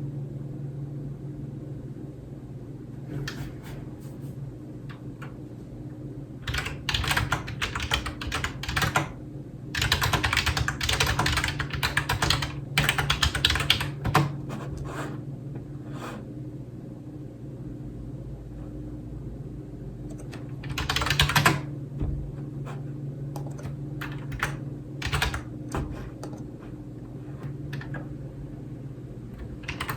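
Typing on a computer keyboard: runs of quick keystrokes lasting two to four seconds, with gaps holding only a few single key presses. A steady low hum runs underneath.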